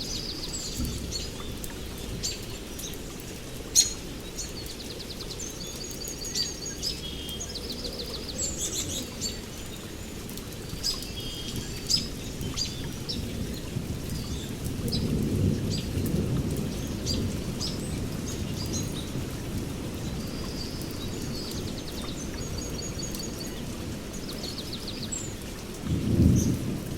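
Several songbirds singing and calling, with repeated high trills and chirps throughout, over a low rumble that swells around the middle and briefly and loudly near the end.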